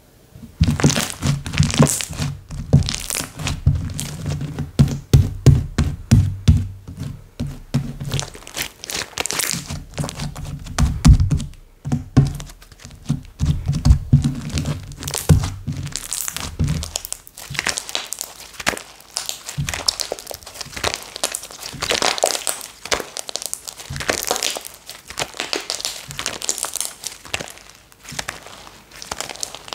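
Hands kneading and pressing slime: dense sticky clicking and popping throughout, with low thuds under it for roughly the first half, then lighter crackling.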